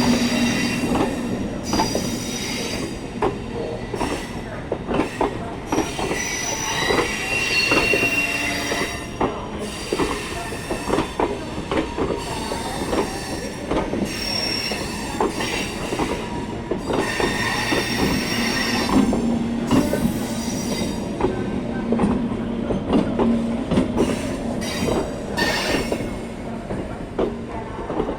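A MEMU (mainline electric multiple unit) passenger train rolling slowly into a station. Its steel wheels squeal in high tones that come and go, over a constant run of sharp clacks and knocks from the wheels on the track.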